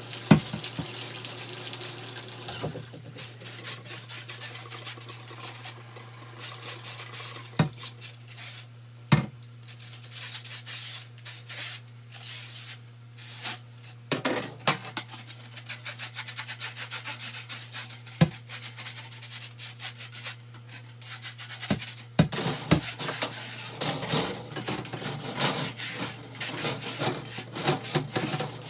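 A crevice brush scrubbing soapy plastic fan parts in a bathtub: quick, uneven rubbing strokes with a few sharp knocks of plastic. Water runs for the first couple of seconds.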